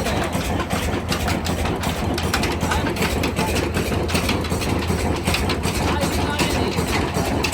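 Diesel engine running steadily, a constant low drone with a rapid clatter.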